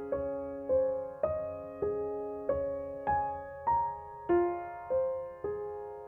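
Background music: a slow, gentle piano melody, one note struck about every 0.6 seconds, each ringing and fading before the next.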